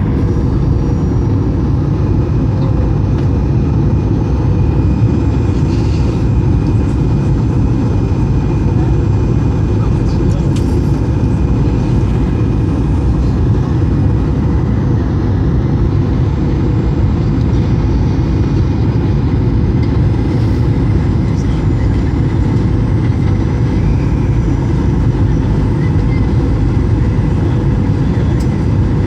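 Steady cabin noise of a Boeing 737-800 in flight: its CFM56-7B engines and the rush of air along the fuselage, with a thin steady hum above it and no change in level.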